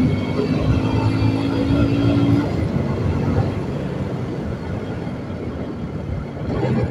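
Suzuki Gixxer 155 single-cylinder motorcycle engine running while riding, heard from the rider's seat. Its steady note fades about two and a half seconds in, leaving a rumble of road and wind noise.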